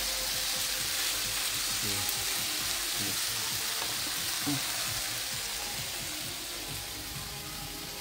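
Fajita filling frying in a hot pan with sesame seed oil: a steady sizzle that eases off a little toward the end.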